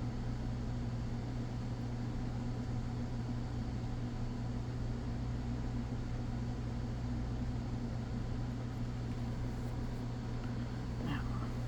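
Steady low hum with a light hiss, holding one pitch and level throughout: background machine noise from a fan or electrical equipment in the room.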